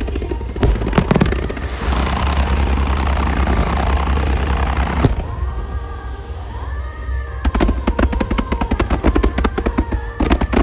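Fireworks going off in a music-synchronised display. Scattered shell bursts give way to a dense wash of many small reports that cuts off about five seconds in. After a short lull, a rapid volley of bursts, several a second, starts about halfway through, with the show's music faintly underneath.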